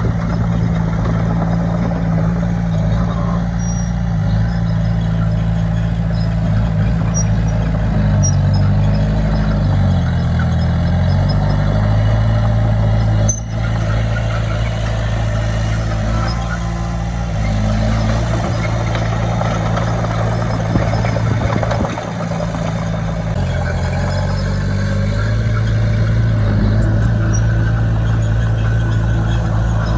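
Bulldozer's diesel engine running steadily, its pitch dipping and rising several times as the engine speed changes under load, with a sharp click about 13 seconds in.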